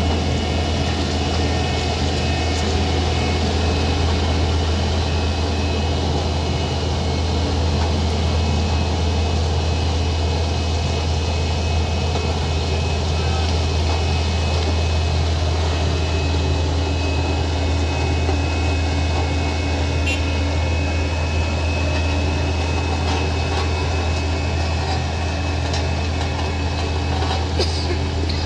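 A vehicle engine running steadily with a low, unchanging drone, with no revving.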